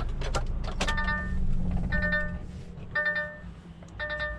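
An electronic warning beeper sounding a short, evenly pitched beep about once a second over a truck's steady low engine hum.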